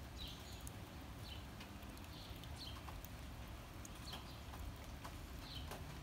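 A small songbird chirping repeatedly: short, slightly falling chirps about once a second, over a steady low background rumble.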